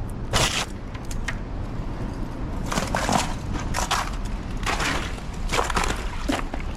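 Several irregular crunching, scraping noises, each under a second long, over a steady low rumble.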